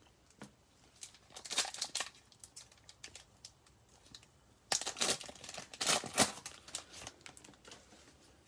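A foil trading-card pack wrapper being torn open and crinkled. It comes in two bursts of crackly rustling, a short one about a second and a half in and a longer one around five to six seconds in.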